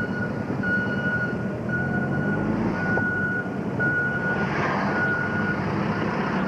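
A vehicle's electronic warning beeper sounding one steady tone, repeating about once a second, over the hum of a vehicle engine. A brief hiss swells up and fades about two-thirds of the way through.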